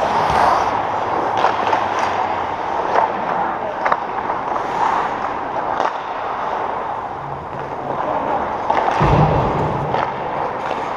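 Arena game noise: a steady din with scattered sharp clicks and knocks from play, and a low thud about nine seconds in.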